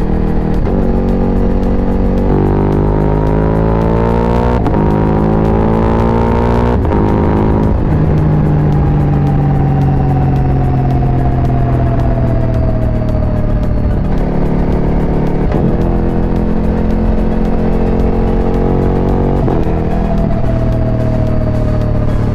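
Ducati Multistrada V4 Pikes Peak's V4 engine pulling hard through the gears: the pitch climbs and drops back at each upshift, falls steadily for several seconds midway as the bike slows, then climbs through more shifts.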